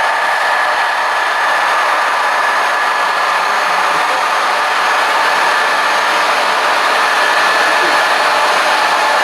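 A steady mechanical whir with a high whine held through it, running at an even level.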